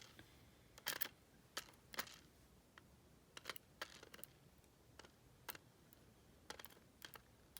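Faint, irregular light clicks and taps of small metal lock parts, the pins and pin tools of a disassembled deadbolt cylinder, being handled and set down.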